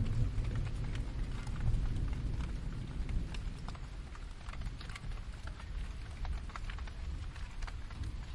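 Steady rain with many individual drops ticking, over a low rumble of distant thunder that eases off over the first few seconds.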